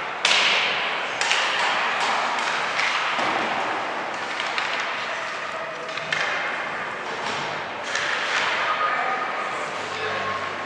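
Sharp knocks and thuds echoing in a large hall, the first and loudest about a quarter second in and more near 1, 6 and 8 seconds, over a steady background murmur.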